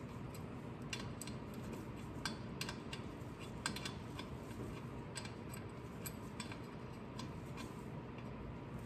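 Light metal clicks and clinks of a hand wrench on bolts while the drive shaft bolts are tightened, coming irregularly, about one or two a second.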